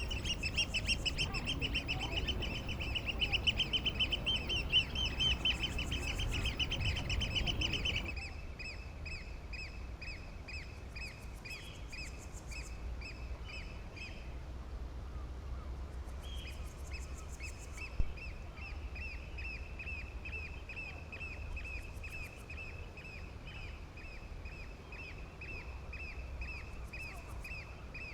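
A bird calling in a long, rapid series of repeated high notes that keeps going, with a steady low background rumble. The background drops suddenly about a third of the way in, and there is a single sharp click about two-thirds through.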